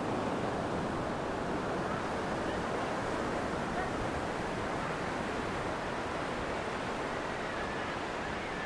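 Steady wash of sea surf breaking on the beach, with some wind on the microphone.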